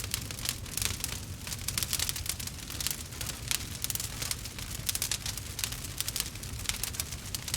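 Campfire crackling: many quick irregular pops and snaps over a steady low rumble of the burning fire.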